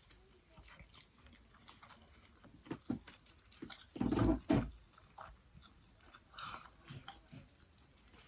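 Close-miked chewing and biting of KFC fried chicken, with scattered wet mouth clicks. A pair of louder low thumps comes about four seconds in.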